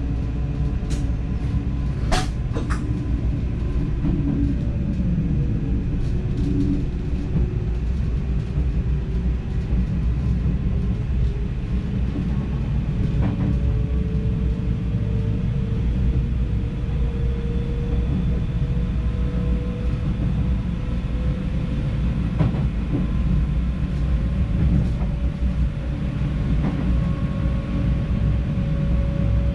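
NS DDZ double-deck electric train running along the track, heard from the driver's cab: a steady low rumble with a whine that slowly rises in pitch, and a few sharp clicks, the loudest about two seconds in.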